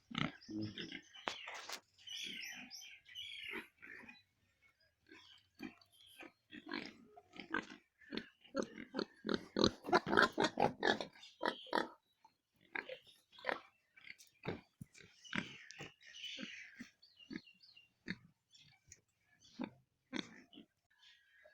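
Cross-breed pigs grunting in many short, irregular calls, thickest about halfway through.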